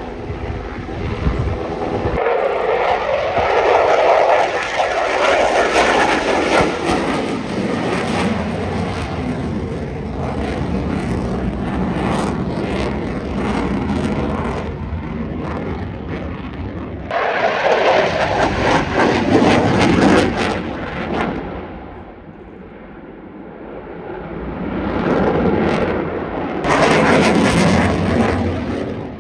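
Aircraft at an airshow, their engine noise swelling loudly and fading away again as they fly past several times.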